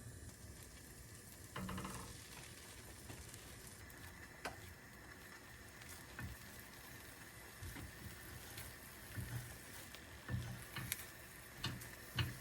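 Food sizzling faintly in a frying pan, with scattered light clicks and taps of a utensil against the pan.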